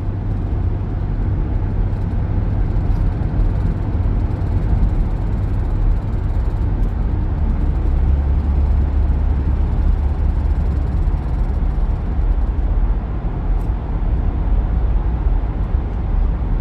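Steady low rumble of road and engine noise inside a moving car's cabin as it drives through a highway tunnel.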